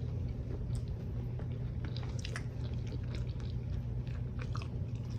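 Close-miked chewing of a breakfast burrito: small wet mouth clicks and smacks scattered through, over a steady low hum.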